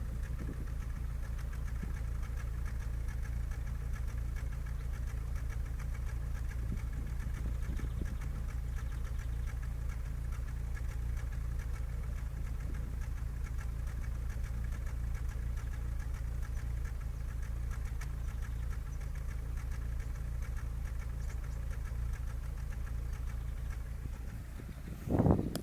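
Škoda Fabia 1.4 MPI four-cylinder petrol engine idling steadily with a misfire, caused by a faulty injector on the third cylinder. A short, loud bump comes near the end.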